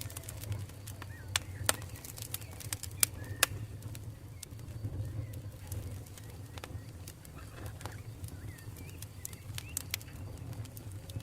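Campfire burning: irregular sharp crackles and pops of burning wood over a low steady rumble, with a few loud snaps in the first few seconds. Faint bird calls in the background.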